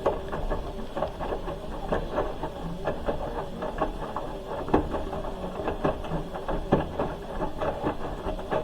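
Hoover H-wash 300 Plus washing machine running mid-wash, its drum tumbling the load with a steady mechanical hum and irregular clicking and knocking throughout.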